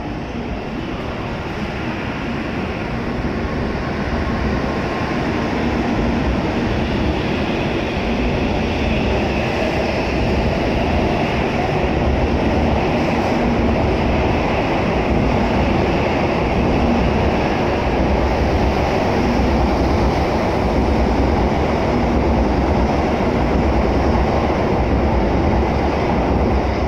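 N700A Shinkansen train pulling out of the station and picking up speed past the platform. The rumble of its wheels and running gear grows louder over the first several seconds, then holds steady as the cars stream by.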